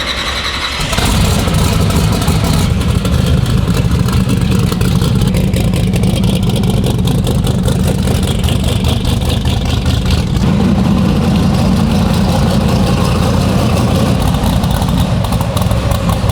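Drag-race car engine fired up and running loud and steady at idle, a rapid even pulsing.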